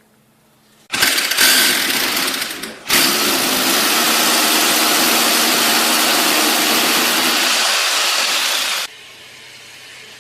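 An electric power tool running at full speed in two runs: a short one starting about a second in, then a steady one of about six seconds that cuts off suddenly near the end.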